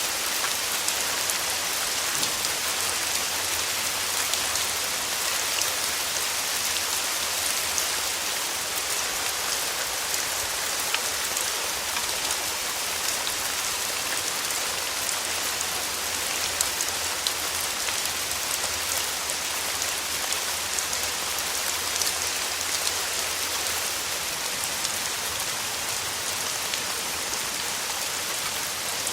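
Steady rain falling, a continuous hiss with many small drop patters spread through it.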